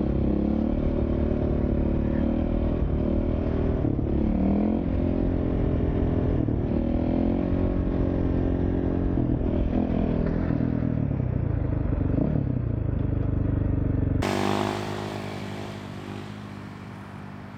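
Dirt bike engine running under throttle, its pitch rising and dipping as the rider opens and closes the throttle. About three-quarters of the way through the sound changes abruptly and then fades away steadily.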